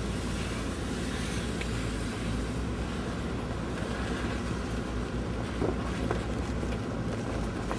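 Four-wheel-drive vehicle driving through snow: a steady low engine and road rumble, with a few faint knocks in the second half.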